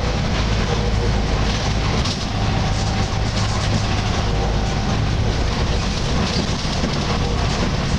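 Volvo B10BLE single-deck bus with Wright Renown body under way: its diesel engine and drivetrain run steadily over road noise, with faint steady tones coming and going in the middle of the range.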